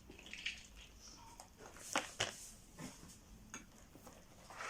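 Parts of a flat-pack unit being handled while it is assembled: a few light clicks and rustles, with two sharper taps close together about two seconds in.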